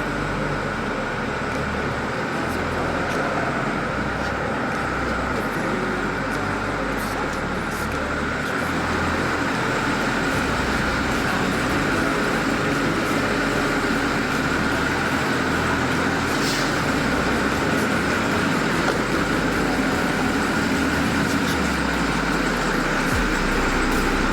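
International Terrastar truck's MaxxForce 7 V8 diesel engine running steadily, a little louder from about nine seconds in.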